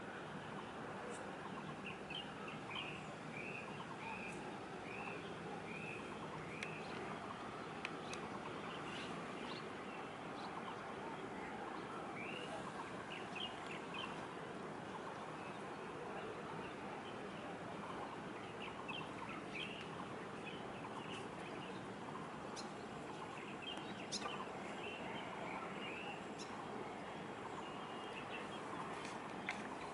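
Steady distant urban background hum with small birds chirping over it in runs of short, repeated notes, about two a second.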